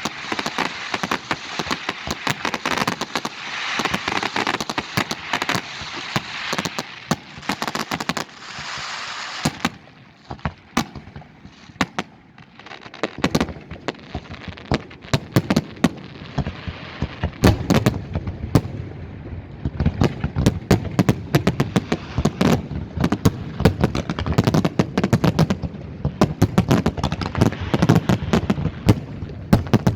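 Fireworks display: rapid sharp bangs over a dense crackle for the first nine seconds or so, thinning briefly, then a fast barrage of deeper booms from a little past the middle.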